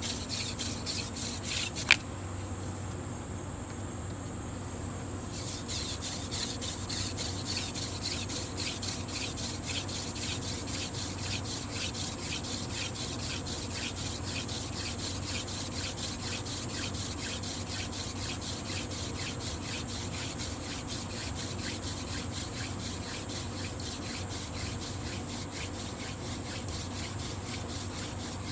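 Mullein hand-drill spindle spun between the palms, rubbing and grinding in the notch of a shortleaf pine fireboard in quick, even, rhythmic strokes, building up hot wood dust in the notch toward an ember. A single sharp click about two seconds in.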